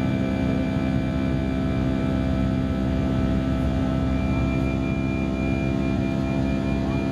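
Steady drone of an Airbus A319 heard from inside the cabin: engine and air-system hum with several steady tones. A thin high tone joins about four seconds in.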